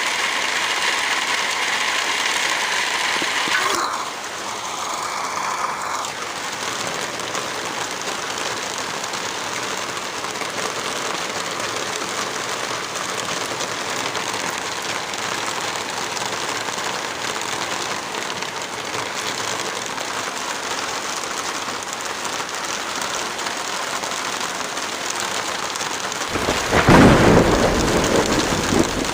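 Heavy rain falling steadily, a dense even hiss whose texture shifts abruptly about four seconds in. Near the end a loud low rumble swells for about two seconds.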